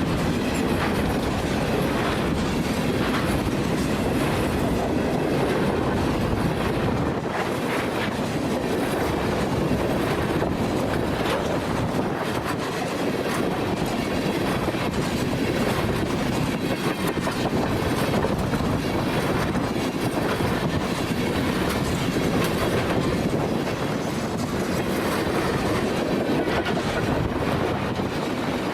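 Freight train rolling past, its railcar wheels clattering over the rails in a steady, continuous rumble.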